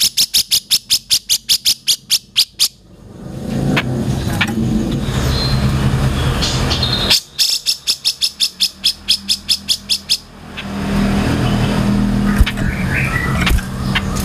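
Cucak jenggot (grey-cheeked bulbul) calling in two rapid chattering runs of about eight sharp high notes a second, each run lasting about three seconds. A steady low rumble fills the gaps between the runs.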